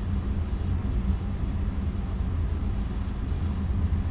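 Steady low rumble inside the cockpit of a Cessna Citation V twin-turbofan business jet on final approach: engine and airflow noise.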